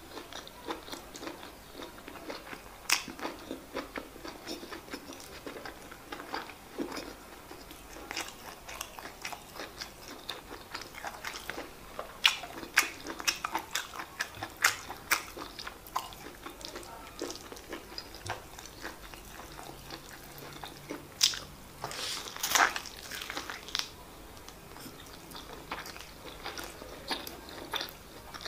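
A person chewing mouthfuls of white rice and chicken stew, with many sharp, wet mouth clicks and smacks, and a louder run of them about 22 seconds in.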